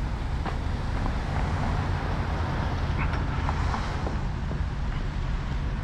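An engine running steadily with a low rumble, with a few light clicks and knocks over it.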